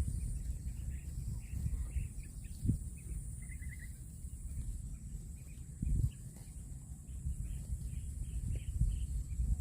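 Small birds chirping repeatedly, with one quick trill, over a steady low rumble and a faint constant high-pitched whine; a couple of dull thumps stand out.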